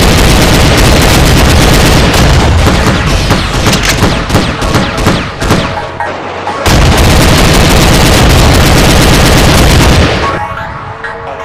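Rapid automatic gunfire, very loud, in two long bursts with a short break about six seconds in; it dies away about ten seconds in.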